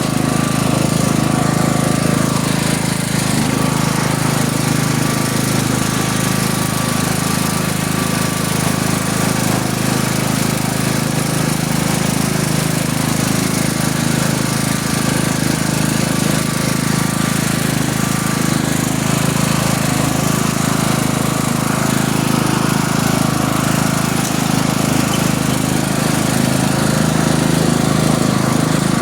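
A tractor engine running steadily under way, loud and even in level.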